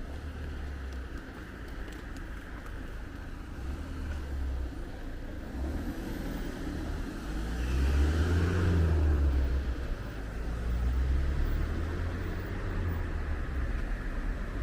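A car passing close by on the street, swelling to its loudest about eight seconds in and then fading, over a steady low rumble.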